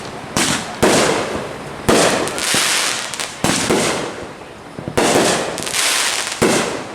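Fireworks exploding: about six sharp bangs, roughly a second apart, each trailing off in a fading hiss.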